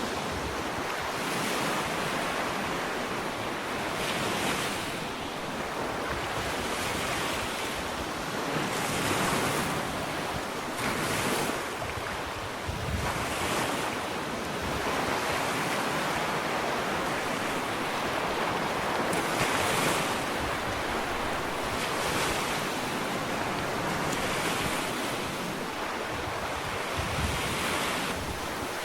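Small ocean waves washing onto a sandy beach, each swell of surf rising and falling every few seconds over a continuous hiss of water, with some wind on the microphone.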